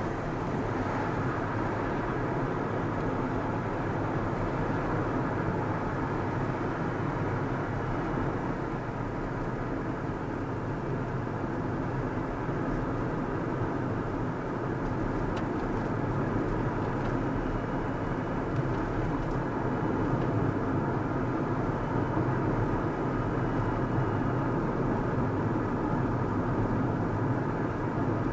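Car driving at a steady pace: an even drone of engine and tyre-on-road noise with no change in speed.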